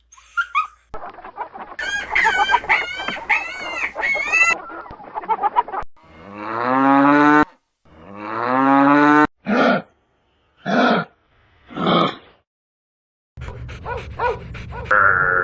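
Farm animals calling in a string of cut-together clips: a run of repeated short calls, two long drawn-out calls, three short calls, then a mix of calls near the end.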